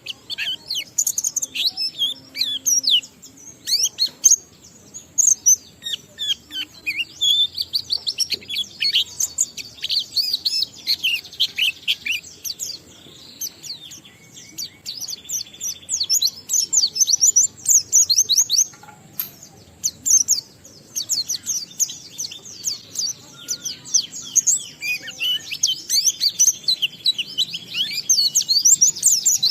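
White-eye (pleci) singing a long, near-continuous song of rapid, high, mostly falling chirps, with brief lulls now and then. This is the sustained outpouring that keepers call 'ngalas', laced with mimicked phrases (isian).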